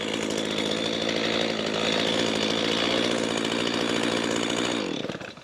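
Two-stroke chainsaw running at steady high speed, then winding down and stopping about five seconds in.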